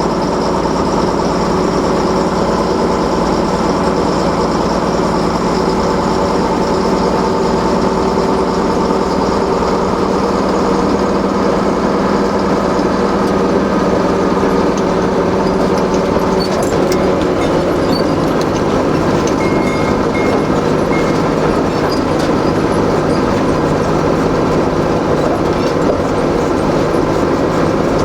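A lorry's engine running steadily and loudly close by, its tone shifting about sixteen seconds in.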